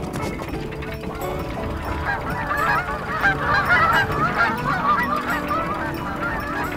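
A flock of geese honking, many overlapping short calls that build up about two seconds in, peak in the middle and thin out near the end, over background music.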